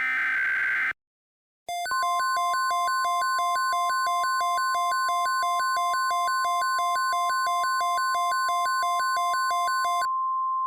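Emergency alert signal: a brief harsh digital data burst, the end of the alert header, then after a short pause a loud steady alert tone near 1 kHz with a fast two-pitch warble over it. About ten seconds in the warble stops and the plain steady tone carries on.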